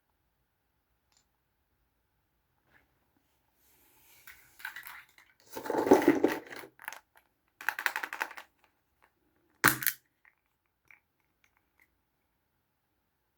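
Small plastic toys and capsule pieces being handled, in a few bursts of rustling and clattering, with one sharp plastic click near the ten-second mark.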